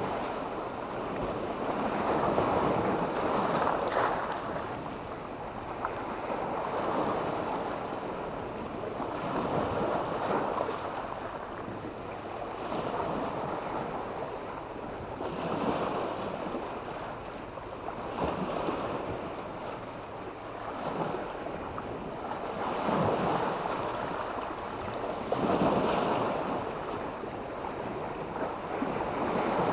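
Sea waves breaking and washing up a shore of black stones and sand, one surge about every three seconds.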